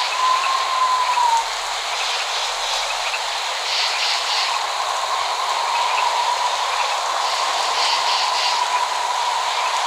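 Steady rain hiss with no thunder. A thin, wavering whistle-like tone rises and fades over it for the first second or so, then returns more faintly from about halfway.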